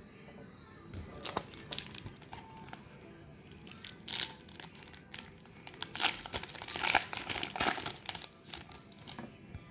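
A foil trading-card booster pack wrapper crinkling and tearing as it is handled and opened, in a run of sharp crackles from about a second in, loudest in the second half.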